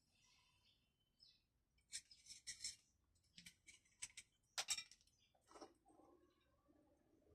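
Faint clicking and scraping of small parts being handled, a quick run of short clicks between about two and five seconds in, otherwise near silence.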